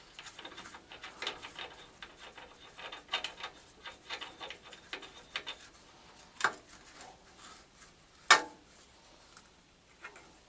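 A run of quick, light clicks and taps from hand work on the tractor's parts, followed by two sharper single clicks, the loudest about eight seconds in.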